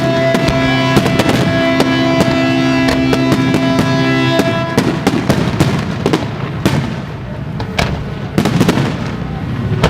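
Fireworks going off in many quick cracks and bangs, over music with long held notes; the music stops about halfway through and the fireworks carry on alone.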